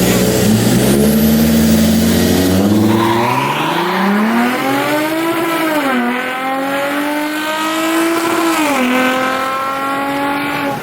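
A car engine accelerating hard through the gears: its pitch climbs steadily, drops abruptly at an upshift about six seconds in, climbs again and drops at a second upshift near the end.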